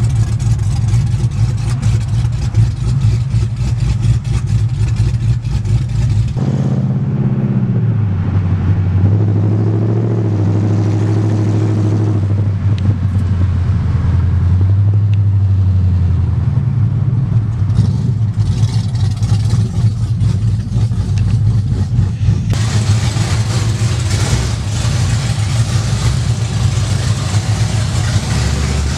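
5.7-litre V8 car exhaust running loud while driving, with its exhaust cut short so it exits under the middle of the car. The low rumble changes to a steadier droning note whose pitch steps and glides, then more rushing noise comes in toward the end.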